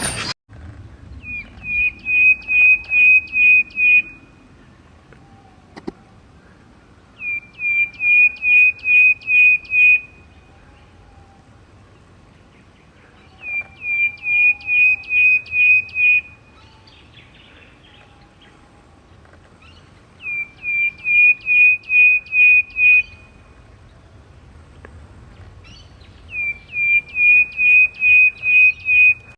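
A bird singing the same phrase five times: a quick run of about eight sharp chirps, each dropping steeply into a steady note, lasting about three seconds, with a few seconds' pause between phrases.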